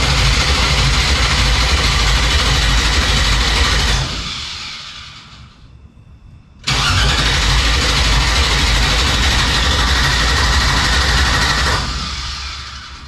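Starter cranking a 5.3-litre LS V8 in a 1957 Chevrolet Bel Air, two attempts: the first stops and winds down about four seconds in, the second starts a couple of seconds later and winds down near the end, and the engine never catches. It is a no-start, traced to bad grounds that kept the ignition coils from firing.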